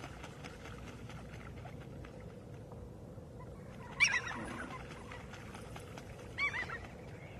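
Parrot calling twice: a short call about four seconds in, the loudest sound, and a shorter one with wavering pitch about two seconds later, over a faint steady background.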